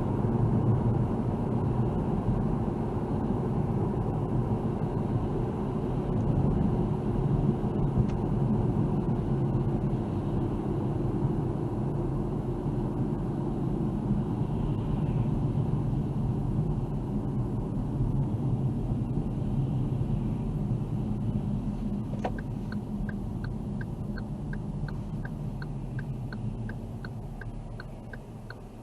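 A car's steady low road and engine rumble, heard from inside the cabin, easing off near the end as the car slows. About twenty-two seconds in there is a click, then the turn signal ticks evenly at about two ticks a second.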